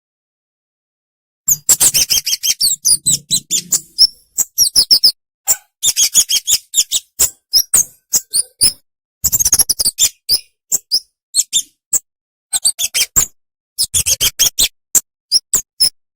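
Flowerpeckers calling: runs of rapid, short, high, sharp chirps broken by brief pauses, starting about a second and a half in.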